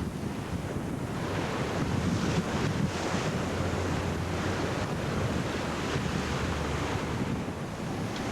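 Water rushing past a sailing yacht's hull and wind buffeting the microphone, a steady wash of noise as the yacht surfs downwind at about 13 knots.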